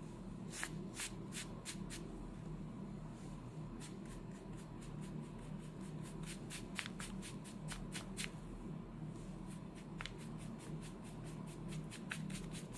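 Faint scratchy ticks and rustles of a soft ink brush dabbing and brushing a wash onto rice paper, coming irregularly a few times a second, over a steady low hum.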